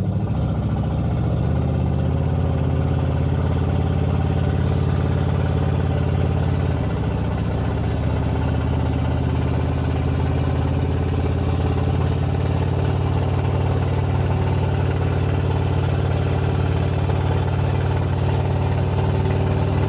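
1970 Oldsmobile Delta 88's V8 engine running under load as the car drives along the road, a steady low drone. About seven seconds in, the engine note changes as the automatic transmission shifts up.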